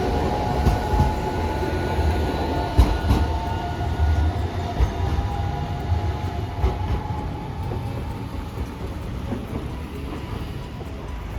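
A Hiroshima Electric Railway streetcar running on its rails: a low rumble with a steady whine, and several sharp clacks as the wheels pass rail joints or points. The sound fades slowly toward the end as the tram moves away.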